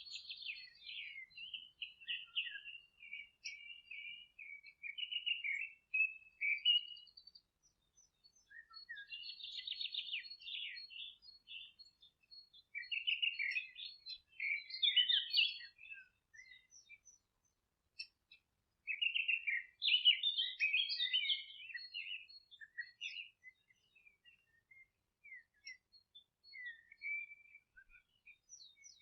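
Songbird song in bouts of rapid, chattering, twittering phrases with short pauses between them, and scattered single notes near the end.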